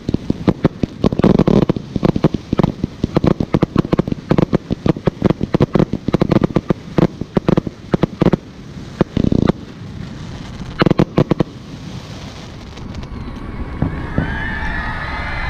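A rapid barrage of fireworks going off, many sharp bangs and crackles a second, dying away after about eleven seconds. A crowd then starts cheering and whistling near the end.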